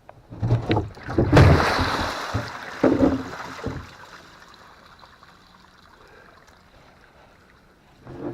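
A few hollow knocks and thumps from a plastic livestock water tank being handled, with a rushing splash of water in the first few seconds, then only quiet background.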